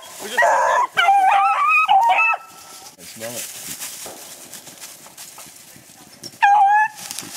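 Thirteen-inch female beagles baying on a rabbit's scent line: a run of short, high, bending cries in the first two and a half seconds, then one more cry near the end.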